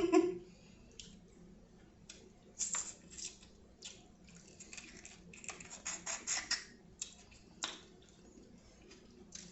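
Close-miked eating sounds of a seafood boil: scattered short wet clicks and crackles of chewing and handling buttery seafood, busiest about halfway through.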